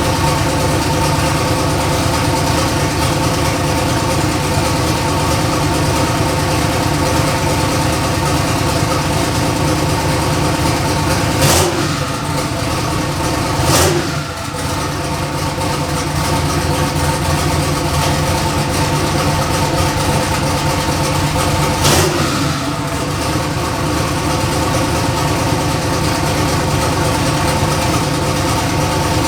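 The Chevy S10's turbocharged LS V8 running at a steady engine speed. There are three short, sharp sounds about 12 and 14 seconds in and again near 22 seconds, the first two each followed by a brief dip in level.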